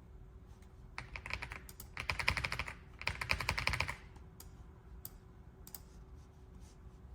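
Typing on an AULA F75 Pro 75% mechanical keyboard with pre-lubed Reaper switches. Three quick runs of keystrokes start about a second in, followed by a few single key presses.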